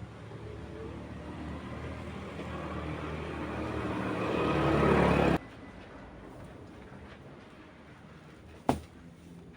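A motor vehicle's engine growing steadily louder as it comes closer, cut off abruptly about five seconds in. A quieter background follows, with a single sharp knock near the end.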